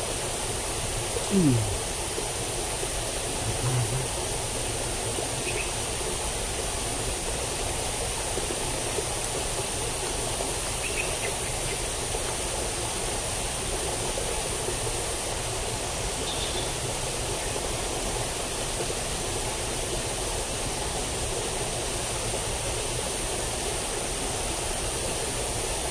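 Steady rushing of water flowing in a small drainage ditch, swollen after recent heavy rain and flooding, with a steady high-pitched hiss over it. A short low falling sound comes about a second and a half in, and a few faint brief chirps later.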